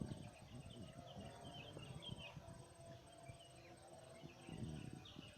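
Faint outdoor ambience: an insect's steady pulsing trill and scattered short chirps over a low rumble.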